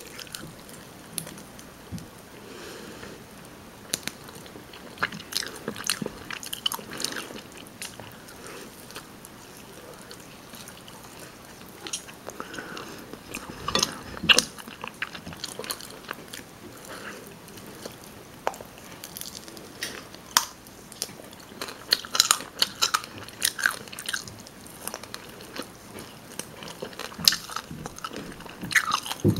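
Close-miked eating of rotisserie chicken: irregular wet chewing clicks and crackles, with louder bites scattered through and a busier run of them in the second half.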